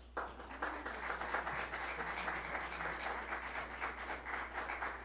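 Congregation applauding after a song: many people clapping at once, starting just before and dense throughout, thinning near the end.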